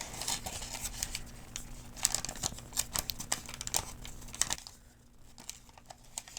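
Paper medication guide crinkling and rustling as it is handled, with many sharp crackles that thin out and grow quieter about four and a half seconds in.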